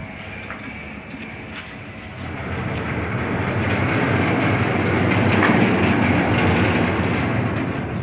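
Mechanical rumble from running machinery that swells from about two seconds in, is loudest in the middle and fades toward the end.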